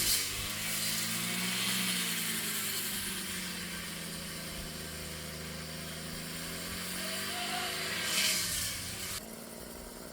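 Brush cutter's small two-stroke engine running at low throttle with a steady hum; its pitch sags slightly and then rises again near the end.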